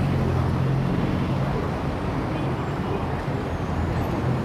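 Heavy city traffic: a steady rumble of idling and slow-moving engines with road noise.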